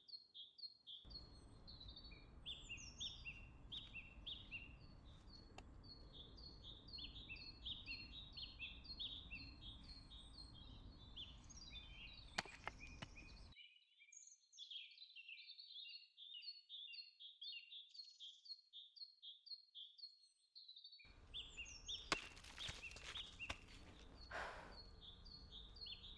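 Faint birdsong: birds repeating short chirping phrases over and over, over a low outdoor rumble that cuts out for several seconds in the middle.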